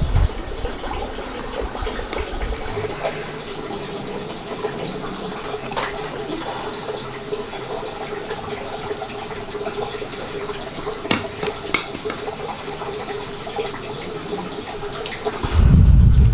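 Water running steadily, with a couple of small sharp clicks about two-thirds of the way in.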